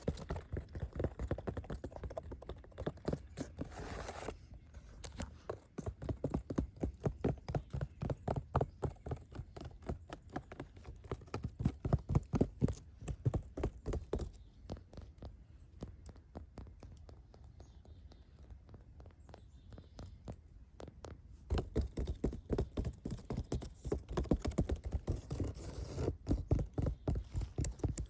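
Rapid tapping on a hard surface, several taps a second in runs with short pauses, with a brief scratchy rustle about four seconds in.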